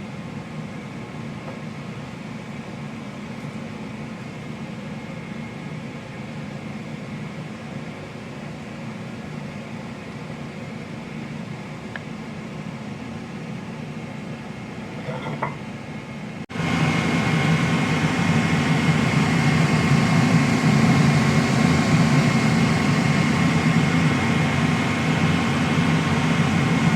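Kitchen range vent hood fan running steadily over ribeye steaks sizzling in a pan on high heat. About 16 seconds in, after an abrupt break, the sound gets louder.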